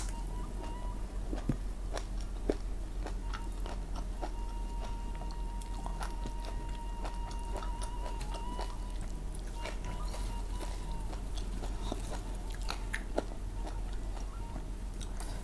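Close-miked chewing and mouth sounds of a person eating, with soft clicks and smacks throughout and the light touch of fingers picking rice and food from the plate.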